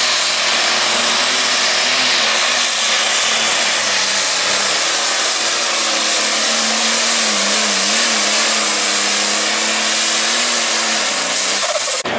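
Light Pro Stock pulling tractor's turbocharged diesel engine running flat out under load, a loud, steady, harsh engine note whose pitch wavers slightly. It cuts off suddenly near the end.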